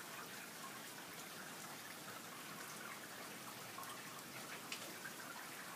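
Light rain falling steadily and faintly, with a few separate drops ticking close by.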